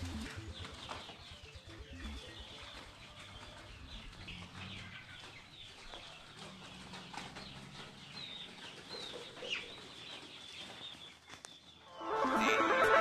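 Birds chirping, with many short chirps that slide in pitch, scattered over a faint steady high tone. Loud guitar music comes in near the end.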